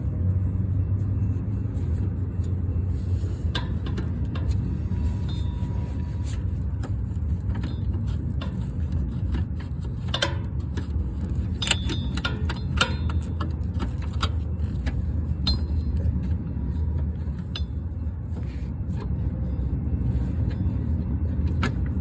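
Metal hand tools clicking and clinking against the starter and its bolts in short, scattered knocks, over a steady low rumble.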